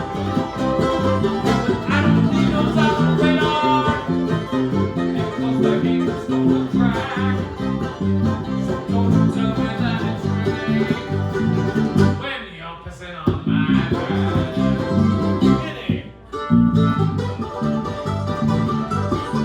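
Live bluegrass band playing an instrumental break on acoustic string instruments, plucked notes over a steady pulsing low bass line. The band drops out briefly twice in the last third.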